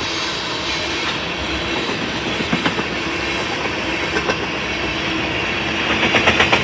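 Freight train of tank cars rolling past with a steady rumble of wheels on rail. Near the end, a fast, even clatter of wheel clicks sets in as car wheels cross rail joints.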